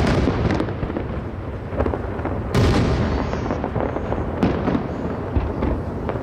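Aerial fireworks shells bursting in a continuous barrage: repeated booms and crackling over a steady rumble, with the heaviest burst about two and a half seconds in.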